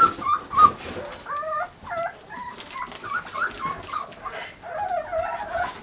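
An American Bully puppy whimpering and whining, a run of short high-pitched cries that rise and fall one after another.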